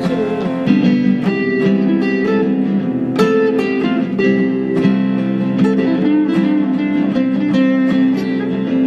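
Guitar music with plucked notes picked several times a second over ringing chords, and a few short slides between notes.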